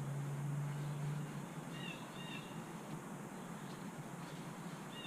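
Steady low hum and hiss; the hum drops about a second and a half in. A bird chirps faintly twice around two seconds in.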